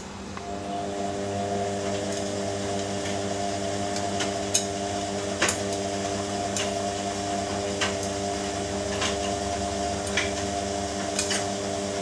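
Ariston AQXL95 washing machine running with a steady hum, with light clicks and knocks scattered through it.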